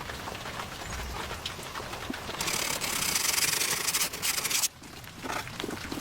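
A hand tool scraping across wood in one continuous stroke of about two seconds, loud and hissy, cutting off sharply, after a run of light scattered knocks.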